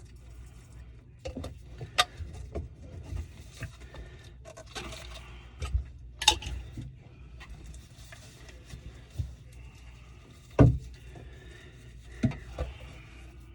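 Irregular knocks, clicks and clatters of parts and tools being handled, with one louder knock about two thirds of the way in, over a steady low hum.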